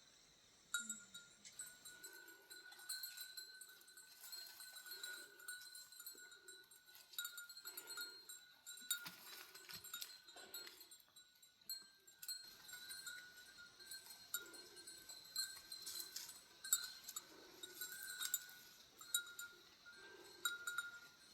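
Goats with bells, the bells clinking irregularly and faintly, with short low animal calls now and then.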